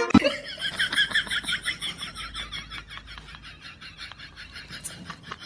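An animal's rapid chattering call: a fast, even run of high chirps that starts loud and slowly fades.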